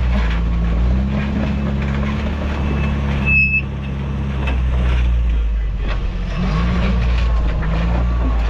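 Off-road truck engine running at low crawling revs, its pitch rising and falling as the throttle is worked over rocks. A brief high squeak sounds a little over three seconds in.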